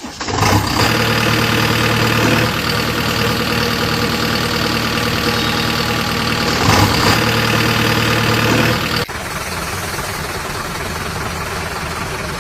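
Heavy diesel vehicle engine sound, a steady running note that swells louder twice, as under load, then drops to a lower, rougher idle about nine seconds in.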